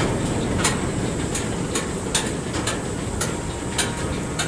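Empty aluminum coal cars of a unit coal train rolling slowly past close by: a steady low rumble of wheels on rail, with sharp clicks about every half second and a faint high steady whine.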